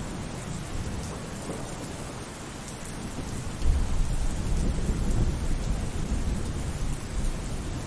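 Steady rainfall, with a roll of thunder rumbling in low and deep about halfway through and rolling on to the end.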